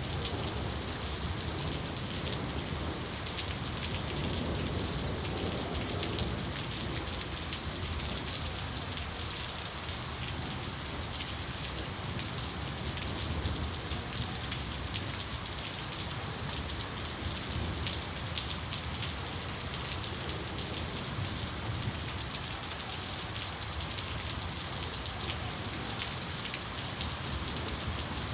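Steady, heavy rain falling on a surface, with many individual drops ticking through a continuous hiss.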